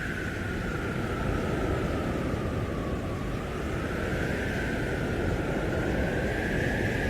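Blizzard wind howling: a whistling howl that slowly falls and then rises again in pitch over a steady low rush of wind.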